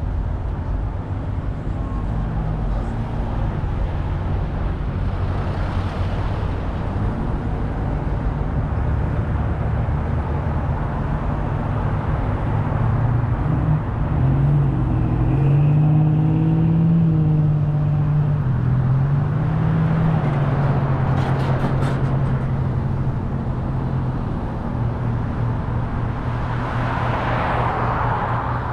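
Car driving on a road: steady engine and tyre rumble with road hiss. About halfway through, the engine note rises and falls for several seconds, and near the end a louder rush of road noise swells.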